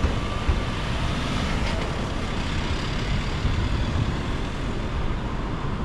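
Steady outdoor city background noise, mostly a low rumble with an even hiss above it, of the kind road traffic makes.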